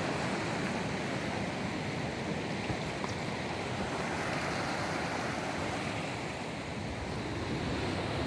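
Steady rushing of fast water tumbling down a mountainside stream.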